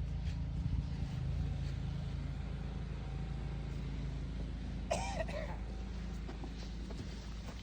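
Steady low engine-like hum. About five seconds in comes one brief vocal sound.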